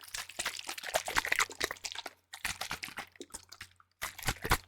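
Plastic spray bottles handled close to the microphone: a dense run of crackly clicks and taps, broken by short pauses about two seconds in and again near four seconds.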